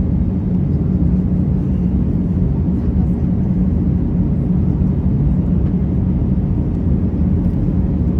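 Steady low drone of an Airbus A321's engines heard inside the passenger cabin, even throughout with a strong hum near 200 Hz.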